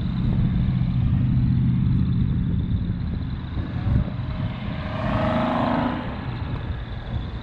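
Car engine running at a low, steady pitch, with a separate higher-pitched sound around five seconds in.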